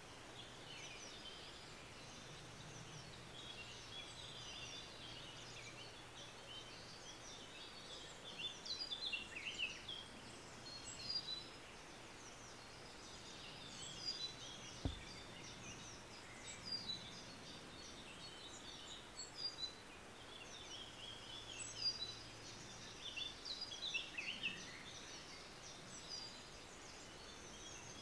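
Birdsong: several small birds chirping and twittering in short, high calls that come in clusters, over a faint steady low hum. A single soft knock about halfway through.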